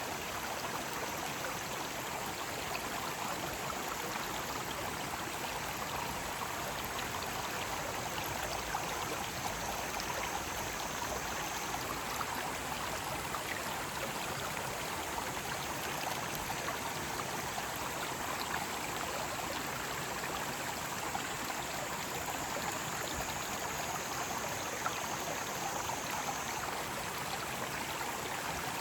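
Mountain stream rushing steadily. A faint high cicada drone comes and goes above the water.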